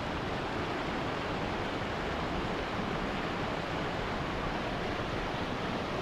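Steady rush of river water running through rapids.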